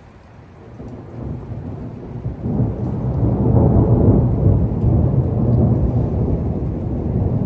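Thunder rumbling: a low rumble swells over the first few seconds, is loudest about halfway through, then rolls on at a high level, over rain.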